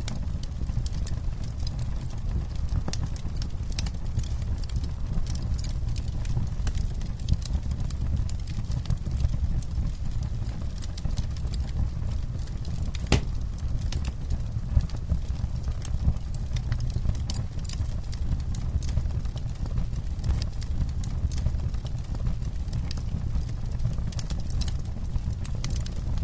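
Campfire burning, the wood crackling with frequent irregular sharp pops over a steady low rumble of the flames, one pop standing out louder about halfway through.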